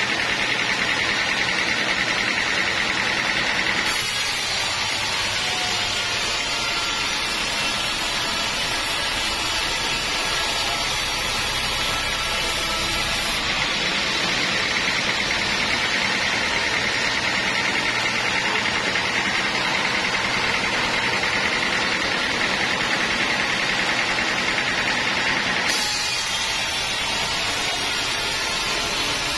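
Sawmill saw and machinery running steadily while cutting teak wood, a loud dense mechanical noise. A high whine comes and goes, dropping out about four seconds in, returning midway and dropping out again near the end.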